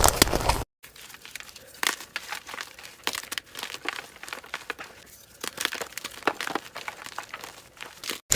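Dyed gym chalk blocks crumbling and being crushed, a run of crisp crackling and crunching, sped up to double speed. A loud stretch of crunching cuts off abruptly under a second in, and a quieter stretch of scattered sharp crackles follows until another abrupt cut near the end.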